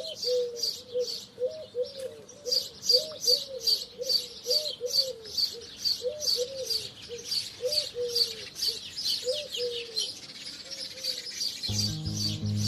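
Sparrows chirping rapidly and continuously, about four chirps a second, with a lower bird's call repeating beneath them. Soft background music comes in near the end.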